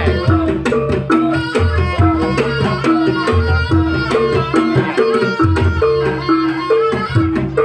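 Traditional Javanese jaranan trance accompaniment: hand drums beating quickly under a repeating two-note melodic figure, with higher reedy lines above.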